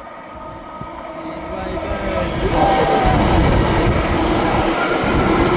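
Class 720 electric multiple unit approaching and passing. Its running noise grows louder over the first three seconds and then holds steady.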